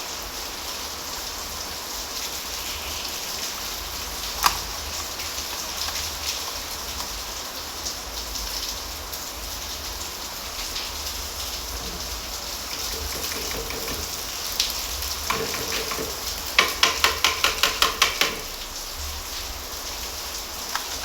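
A spoon clinks fast against a container, about nine quick strikes in under two seconds near the end, typical of stirring or tapping medicine powder into a can of water. A steady hiss runs underneath, and there is one sharp click early on.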